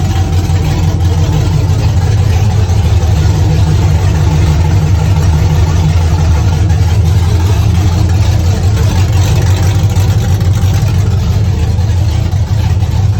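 A truck engine running loud and steady, holding one speed without revving up or down.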